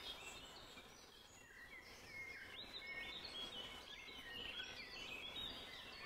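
Several small birds chirping and singing together in short, overlapping rising and falling notes over faint outdoor background noise, busiest in the second half.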